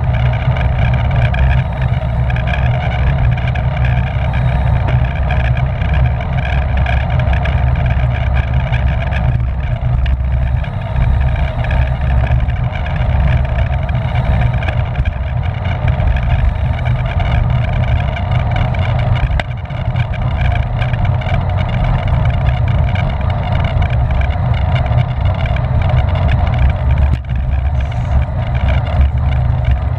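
Wind rushing over the microphone of a camera riding on a racing bicycle at speed: a loud, steady buffeting rumble, with a steady hum from the bike's tyres and drivetrain above it.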